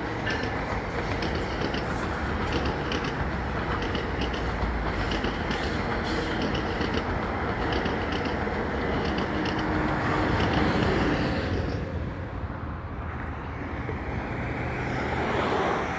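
Exo commuter train of Bombardier multilevel coaches rolling past with a steady rumble, its wheels clicking rhythmically over the rail joints. The sound dips about three quarters of the way through, then swells again.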